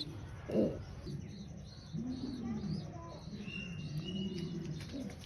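Pigeons cooing in low, repeated coos, with faint higher bird chirps mixed in.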